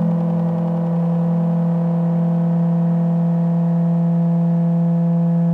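Make Noise Strega modular synthesizer patch, driven by a 0-Coast and 0-CTRL, holding one steady low ambient drone with a stack of overtones.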